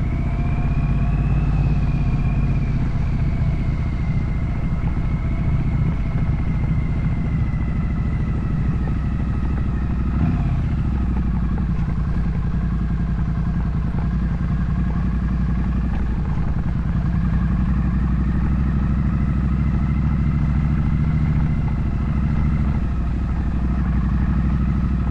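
Triumph Street Twin 900's parallel-twin engine running steadily while the motorcycle is ridden, its note drifting gently, with a brief change in pitch about ten seconds in.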